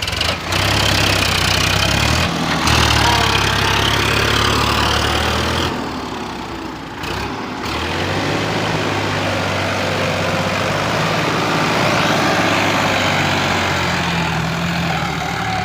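Sonalika tractor's diesel engine running, with a brief dip in level about six seconds in.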